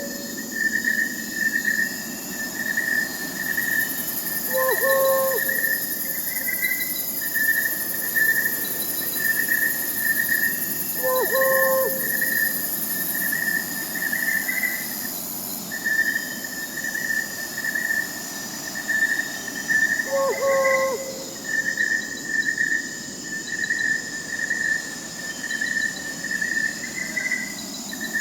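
Crickets chirping in a steady run of rapid pulses, with an owl hooting three times, a short call every several seconds.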